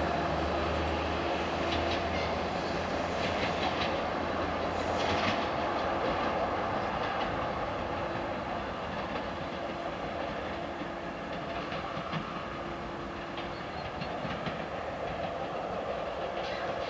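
630Mil diesel multiple unit running away down the line. Its diesel engine hum is strong at first and fades after a couple of seconds, with a run of sharp wheel clicks over rail joints and points a few seconds in, and the whole sound slowly dies away as the train recedes.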